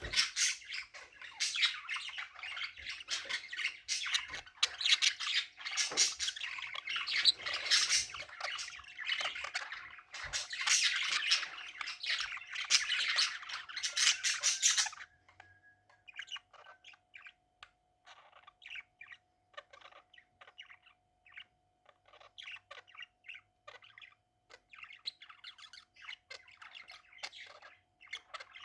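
Pet budgerigars chattering: a dense run of warbling and chirps that breaks off about halfway through into sparse, quieter chirps. A faint steady hum runs underneath.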